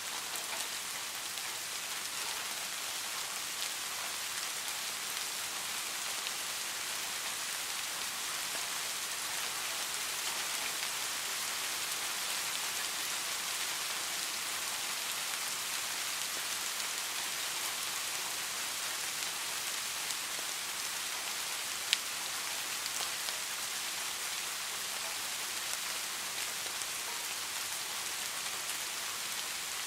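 Steady rain falling: an even, dense hiss of drops with faint scattered drop ticks, and one sharp click about three-quarters of the way through.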